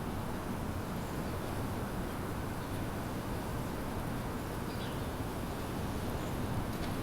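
Steady low rumble of distant city traffic, with a few faint, short bird chirps over it, one about a third of the way in and another past the middle.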